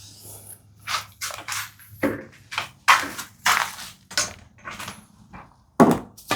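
A string of short, irregular crunching and rustling handling noises from objects being moved about on a workbench, the loudest just before the end.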